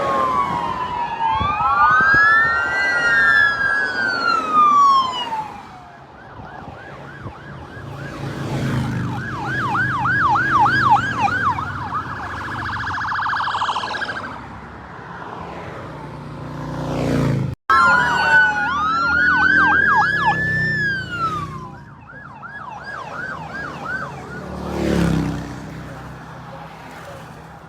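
Emergency vehicle sirens, several sounding together, alternating between slow rising-and-falling wails and a fast yelp of about three sweeps a second. The sound cuts out for an instant partway through, then the sirens resume.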